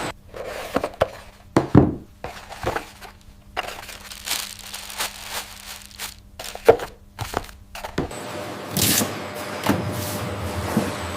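Handling noises: scattered knocks, taps and thuds at an irregular pace over a faint steady hum, with the background changing abruptly about eight seconds in.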